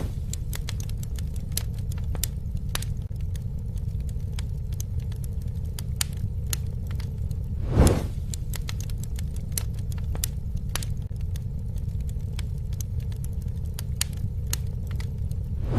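Campfire burning: a steady low rumble of the flames with frequent sharp crackles and pops, and one louder whooshing swell about halfway through.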